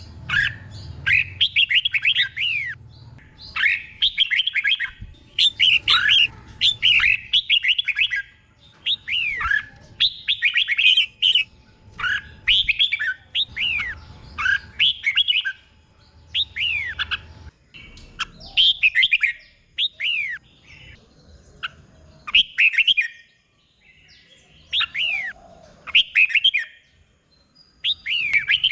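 Red-whiskered bulbul singing: short, quick phrases of sharply falling whistled notes, repeated again and again with brief pauses between. A faint low hum runs underneath and stops a little over halfway through.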